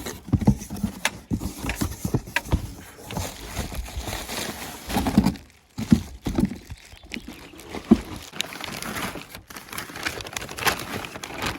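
Packaging being torn open and handled to unpack a boxed metal cargo rack: irregular knocks and thumps with rustling in between, and a brief pause a little past halfway.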